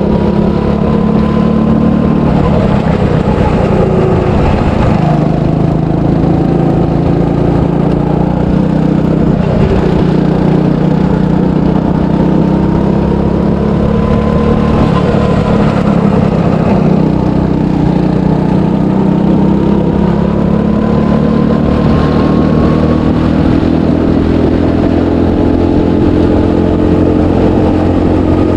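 300cc go-kart engine running hard on a lap, its pitch rising as it accelerates and dipping as it backs off, several times over.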